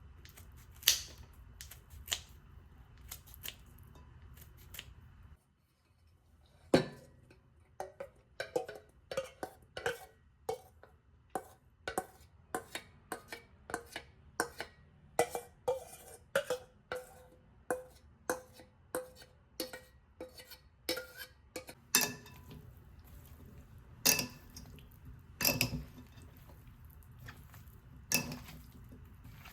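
Metal utensil clinking against a bowl in quick, repeated strokes, about two to three a second, the bowl ringing faintly, as food is worked in it; a few separate louder knocks of dishes near the end.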